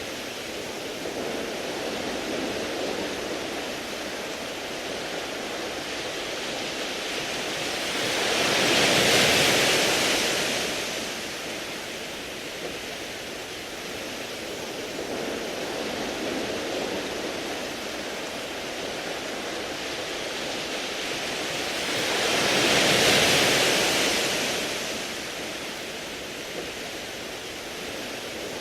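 Waves washing onto a smooth-pebble beach: a steady wash with two waves swelling louder and breaking, about nine seconds in and again near the end.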